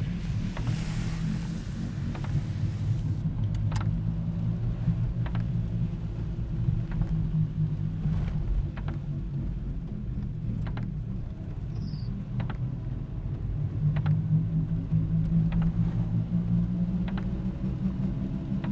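Steady low rumble of a motor vehicle's engine, with scattered sharp ticks about once a second. A hiss is heard in the first two or three seconds, then stops.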